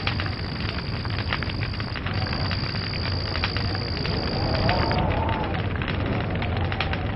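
Wood log fire crackling, many sharp pops over a steady low rumble. A steady high-pitched tone runs alongside until about five seconds in, breaking briefly about two seconds in.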